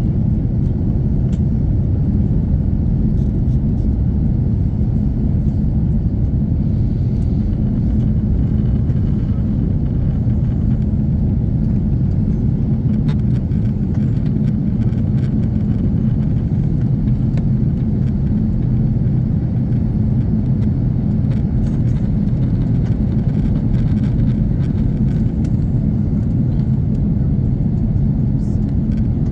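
Steady low rumble of a four-engined Airbus A340-300 heard from inside the passenger cabin in flight: engine and airflow noise at an even, unchanging level.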